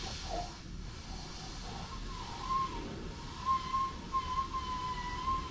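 Li Auto L7 at speed: a steady, high whistling tone comes in about two seconds in and holds over a low rumble of road and wind noise. It is the whistle that owners hear at 130–140 km/h, which sealing rubbers do not cure.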